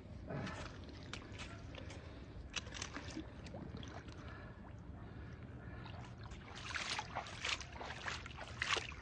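Water sloshing and splashing in many short, irregular splashes and drips over a steady low rumble, busiest and loudest near the end: a large fish being handled in the water for release.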